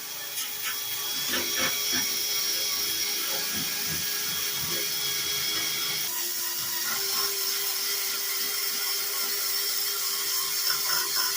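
Power drill spinning a red Scotch-Brite abrasive disc against the rusty metal of a toolbox tray: a steady motor whine under the scratchy scrub of the disc, its pitch shifting slightly about halfway through.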